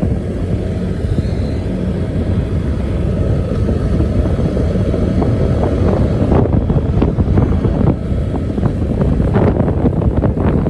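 Old bus engine running steadily, with the deep 'snoring' exhaust note typical of this bus. Sharp clicks or rattles come in over the rumble in the second half.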